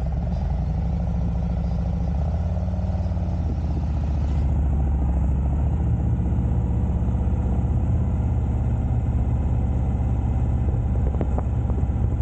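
Harley-Davidson Road Glide Special V-twin engine running steadily under way with a low rumble. The pitch shifts about three seconds in, and the sound gets a little louder soon after.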